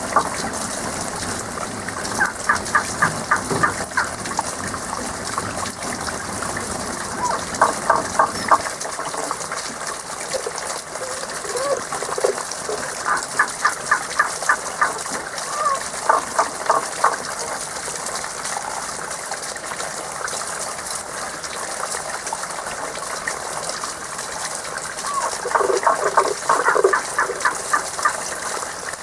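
Frogs calling in about five bouts of rapid pulsed croaks, each lasting a second or two, over the steady rush of running spring water.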